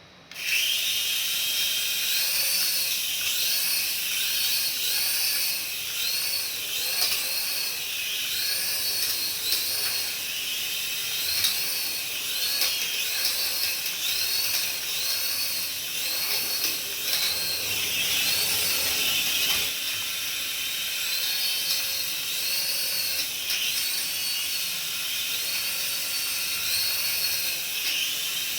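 A small battery-powered toy's electric motor whirring at high pitch, switched on suddenly, with a warbling tone repeating about one and a half times a second over it.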